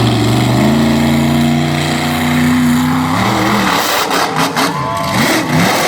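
Monster truck engine held at a steady high rev for about three seconds, then blipped up and down in quick rises and falls near the end.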